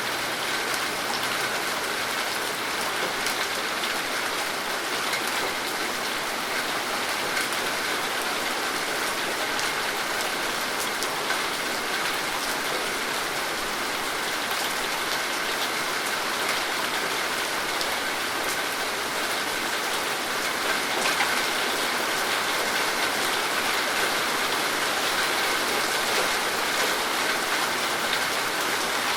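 Steady rain falling, an even hiss dotted with the fine ticks of many drops hitting surfaces.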